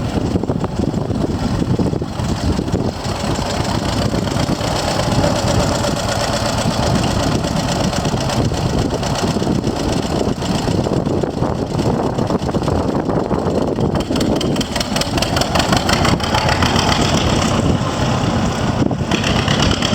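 John Deere Model B tractor's two-cylinder engine running steadily.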